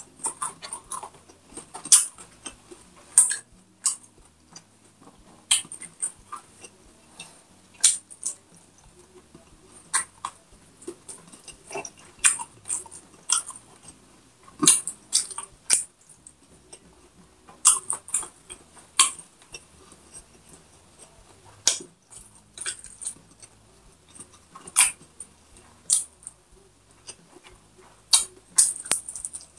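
Chewing with irregular sharp crunches, several each second, from someone eating crispy fried pork belly by hand.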